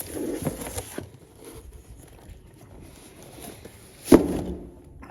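Objects being handled and rummaged through, with one sharp knock about four seconds in, as something hard is set down or dropped.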